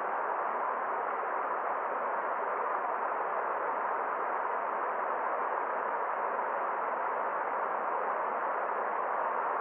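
Steady rushing of a forest stream, an even unbroken noise with no splashes or other events standing out.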